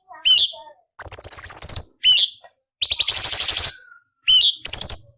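Orange-bellied leafbird (cucak cungkok) singing in short bursts with gaps between them. Sharp upward-sweeping notes alternate with harsh, rasping chattering phrases of about a second each, with a high thin whistle on top.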